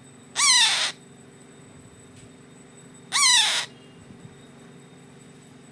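A 25-day-old parrot chick calling twice, each call about half a second long and rising then falling in pitch, the calls nearly three seconds apart: the calls of a hand-fed chick.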